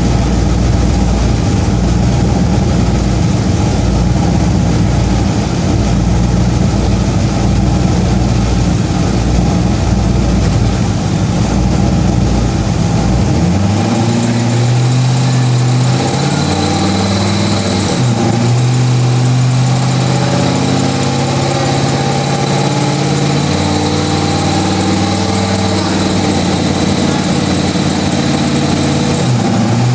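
Turbocharged 5.3-litre V8 with an aftermarket cam, idling with its pitch wavering unevenly. About 13 seconds in, the deep low rumble drops away.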